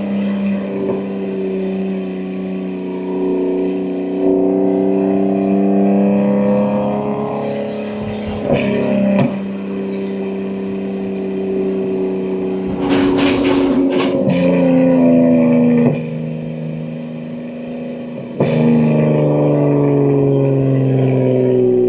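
BMW M2 G87's S58 twin-turbo inline-six running under way, exhaust louder through catless downpipes, its note rising and falling with the throttle. A cluster of sharp cracks comes about 13 seconds in; the engine goes quieter around 16 seconds, then pulls hard again with rising revs just after 18 seconds.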